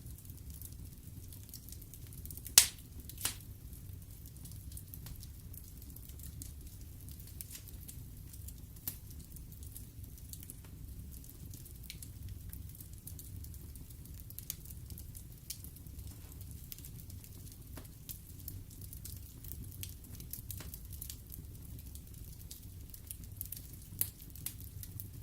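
Wood fire in a fireplace crackling, with many small snaps over a low steady rumble of the flames. Two sharp loud pops come about two and a half and three seconds in, and another near the end.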